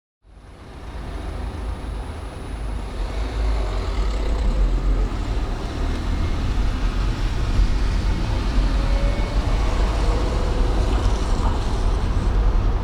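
Road and traffic noise from a car driving through city streets: a steady low rumble under a broad hiss, fading in from silence at the start.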